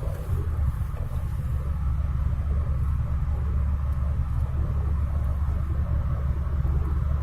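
Peugeot 206 on the move, a steady low rumble of engine and road noise.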